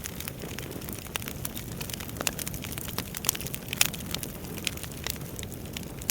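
Wood fire burning in a fireplace: a steady low rush of flames with irregular sharp crackles and pops from the burning logs, the loudest pop about four seconds in.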